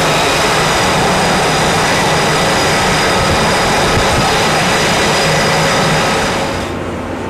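Jet engine noise, a loud steady rush with a high turbine whine, which changes about six seconds in to a duller, quieter rumble without the high whine.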